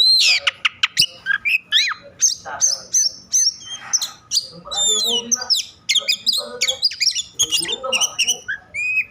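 Oriental magpie-robin (kacer) in agitated, heated song: a dense stream of quick whistled notes sweeping up and down, mixed with harsh chattering and sharp clicks, with hardly a pause. This is the 'over-emotional' song used to provoke other magpie-robins into singing.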